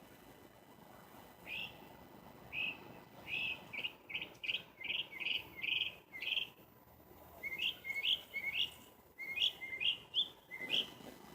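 Small birds chirping: a string of short, high chirps, two or three a second, breaking off briefly about seven seconds in and then resuming.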